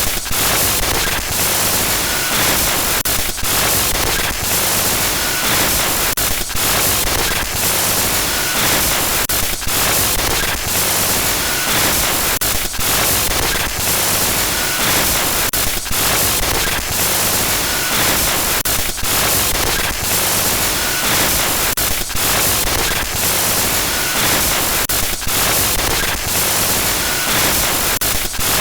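Loud glitch-noise horror sound effect: harsh digital static hissing across the whole range, constantly stuttering with brief dropouts. It runs as a loop that repeats about every three seconds.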